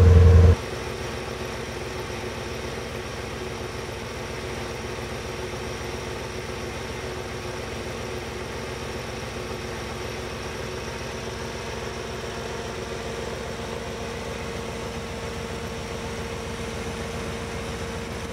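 1969 Corvette V8 idling steadily. A louder low hum cuts off about half a second in, after which the idle carries on at an even level.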